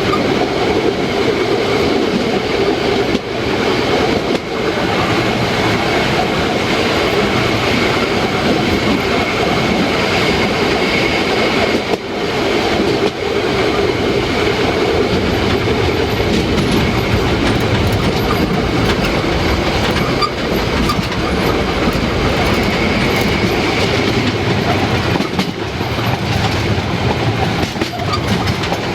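Narrow-gauge steam train running, with a steady loud rumble and the clatter of wheels on the rails.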